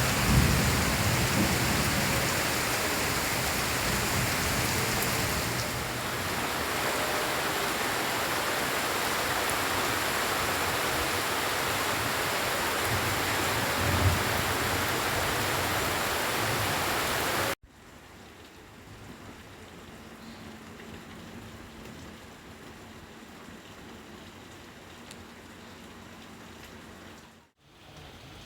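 Heavy rain pouring down, a dense steady hiss of water. About seventeen seconds in it cuts abruptly to softer, quieter rain, with a brief dropout near the end.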